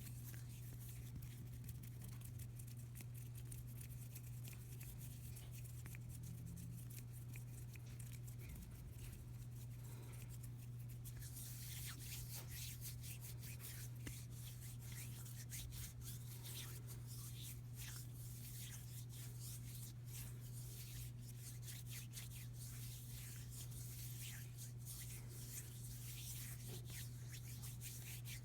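Bare hands rubbing and brushing close to the microphone: soft, dry skin-on-skin strokes that grow brighter and denser about eleven seconds in, over a steady low hum.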